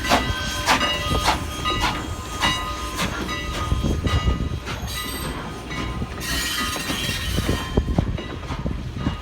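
Strasburg Rail Road No. 89, a 2-6-0 steam locomotive, working with exhaust chuffs about every 0.6 s that fade out after about three seconds. A burst of steam hiss comes about six seconds in and lasts over a second.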